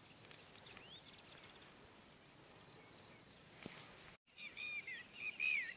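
Quiet outdoor field ambience with faint bird calls, then, after a brief break about four seconds in, a bird chirping in a quick series of short, falling chirps.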